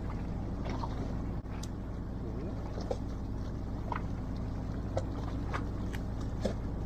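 Fishing boat's engine running steadily as a low hum, with scattered light clicks over it.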